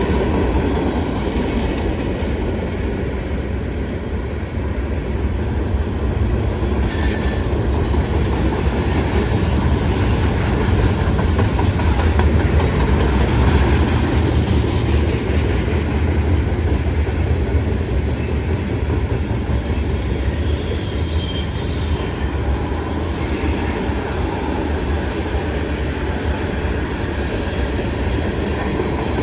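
A train rolling past, a steady heavy rumble of wheels on rail, with thin high wheel squeals coming and going in the second half.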